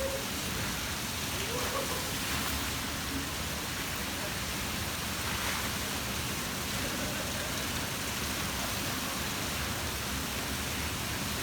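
Steady rush of falling and splashing water from water park features, with faint voices of people in the background.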